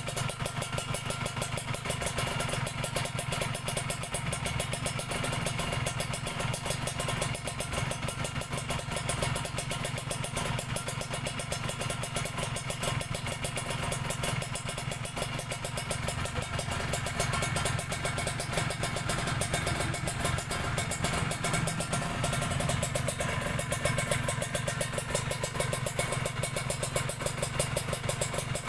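Kawasaki Ninja 150RR's two-stroke single-cylinder engine idling through a cheap KDX Racing aftermarket exhaust, a rapid, even stream of exhaust pulses. It gets a little louder about two-thirds of the way through.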